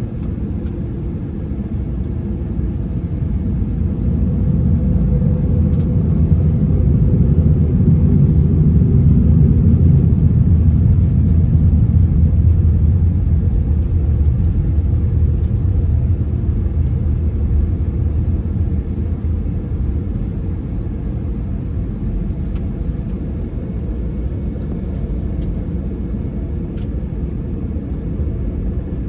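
Low rumble of an Airbus A321 jet heard from inside the cabin. It swells over several seconds, then eases back to a steady drone.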